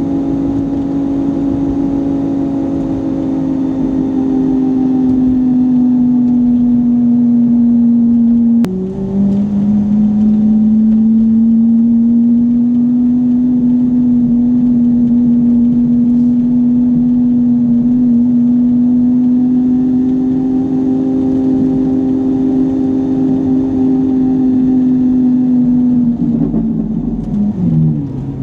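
Car engine heard from inside the cabin, droning at a steady pitch while cruising. About nine seconds in it shifts gear, a sudden break and drop in pitch, and near the end the pitch falls as the car slows.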